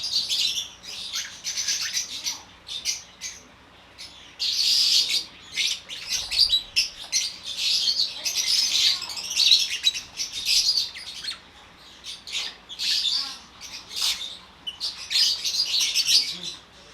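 A flock of African lovebirds chirping in dense, shrill bouts, with brief lulls about four seconds in and again near twelve seconds.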